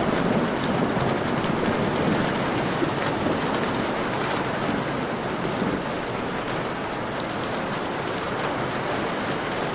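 Steady heavy rain on a window pane: a dense hiss with fine ticks of drops striking the glass. A low thunder rumble dies away over the first couple of seconds.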